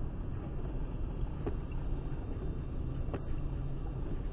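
Steady engine and road noise inside a moving car, picked up by a dashcam's low-quality microphone, with a faint tick about every second and a half.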